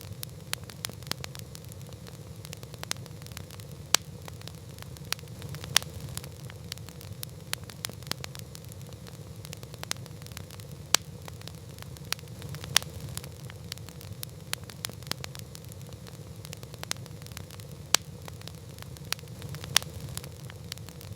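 Wood campfire crackling: frequent small snaps and pops over a steady low rumble, with a louder sharp pop every few seconds.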